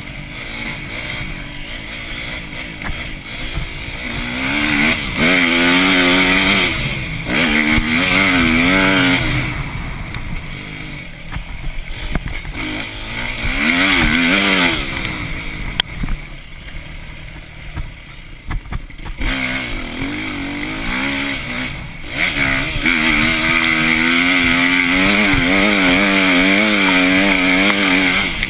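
Motocross bike engine revving hard and backing off again and again as it rides the track, its pitch climbing and dropping with the throttle. It is loudest in three long pulls, with quieter spells in between.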